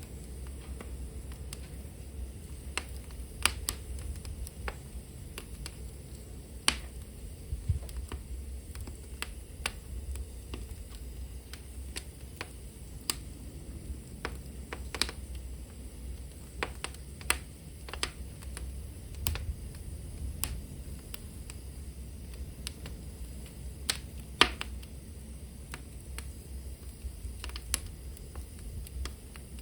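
Wood fire burning in a hearth: irregular sharp crackles and pops, the loudest about three and a half, seven and twenty-four seconds in, over a steady low rumble of flame.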